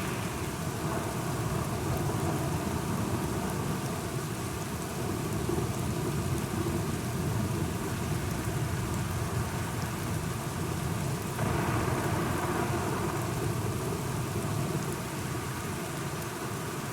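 Steady rain with a low rumble of distant thunder underneath. The rain grows brighter and heavier about eleven seconds in, then eases slightly near the end.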